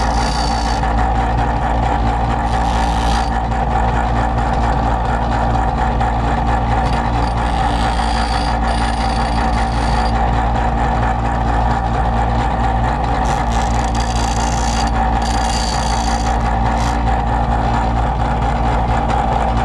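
Electric grinder running steadily while grinding down the rakers (depth gauges) of a new chainsaw chain, with a brighter, higher grinding sound coming and going as the stone meets the metal.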